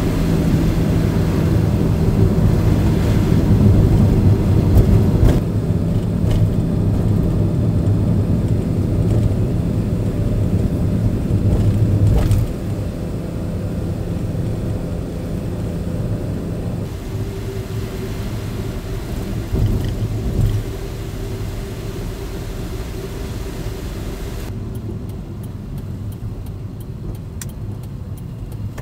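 Light truck driving: a steady low engine and road drone that drops in level about twelve seconds in and again around seventeen seconds.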